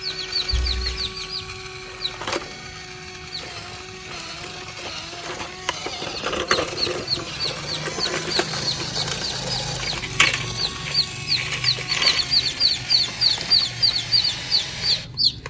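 Birds chirping in rapid runs of short, falling notes, growing busier in the second half. A steady whine runs through the first five seconds, with a few sharp knocks scattered through.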